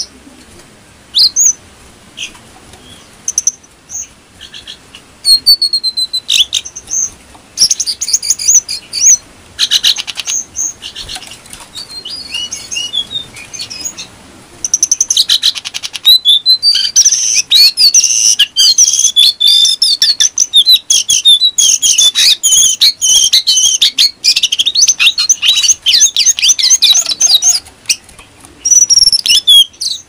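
Lesser shortwing singing: scattered short, high chirps at first, then about halfway in a fast, unbroken run of high, clear notes that breaks off shortly before the end.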